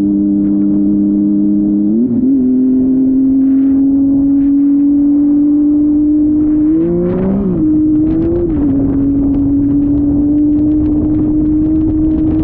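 Motorcycle engine held at steady revs, with two brief rises and falls in pitch, about two seconds in and about seven seconds in.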